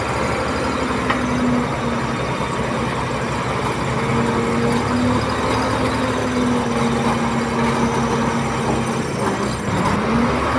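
Diesel engine of a Komatsu D31P bulldozer working, running steadily with a held tone that dips and climbs back up near the end.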